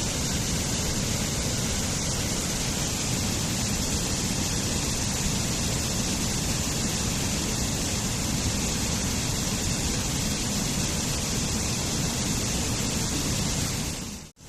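Waterfall: a steady, even rush of falling water, which drops out briefly just before the end.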